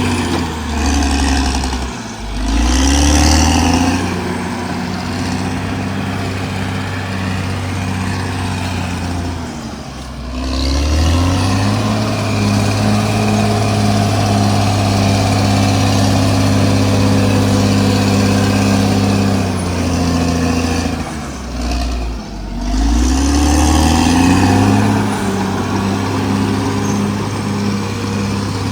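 Caterpillar D6R XL bulldozer's diesel engine working hard. Its pitch sags and climbs back three times, about 2, 10 and 22 seconds in, as the revs drop and pick up again.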